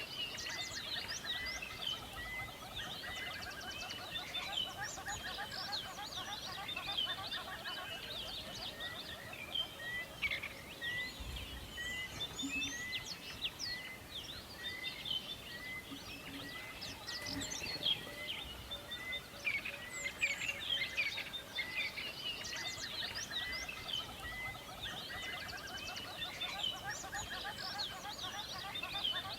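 Many birds singing at once in a forest, a dense chorus of chirps and trills, with one bird repeating a short note over and over through much of it.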